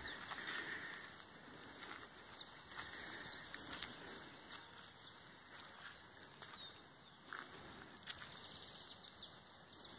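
Faint rural outdoor ambience with a run of short, high bird chirps over the first few seconds and a few scattered ones later.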